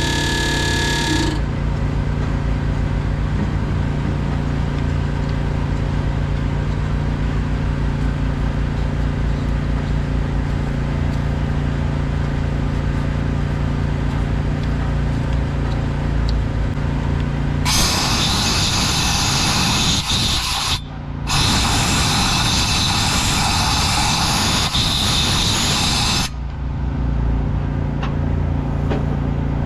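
A diesel engine idles steadily throughout. Past the middle come two loud bursts of hissing spray, about three and five seconds long with a brief break between, as the injector area is cleaned out.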